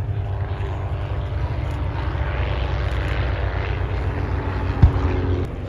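Propeller engines of replica First World War fighter biplanes flying a mock dogfight, a steady drone that swells as the aircraft pass. There is a brief low thump near the end.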